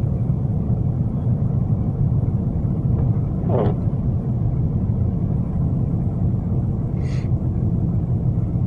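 Steady low rumble of a car's engine and tyres heard from inside the cabin while driving on a snowy road. A short falling tone comes about three and a half seconds in, and a brief hiss at about seven seconds.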